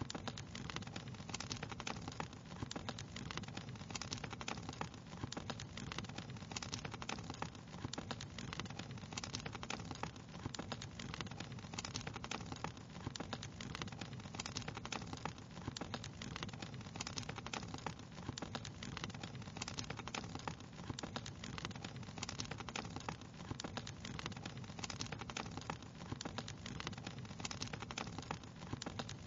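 Wood fire crackling steadily, with many small irregular pops and snaps over a low steady rumble.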